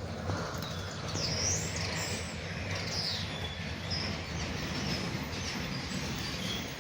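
Birds chirping, several short high calls that rise and fall, over a steady low rumble.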